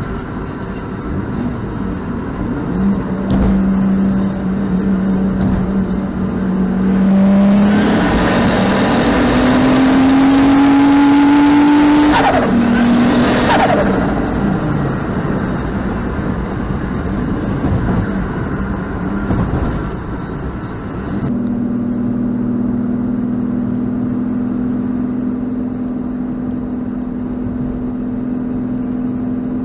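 A car engine under hard acceleration in a street race: a steady drone, then the pitch climbs for about four seconds under a loud rushing hiss and falls away sharply. Later there is a steady, even engine drone.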